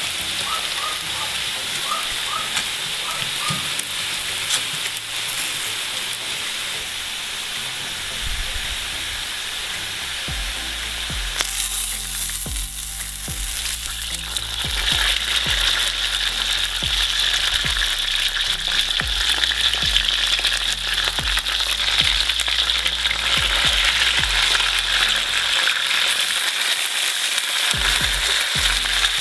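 Potatoes frying in hot oil in a cast-iron kazan: a steady sizzle, with a wooden spatula stirring at first. Chicken drumsticks go back into the pot, and about halfway through the sizzle grows louder.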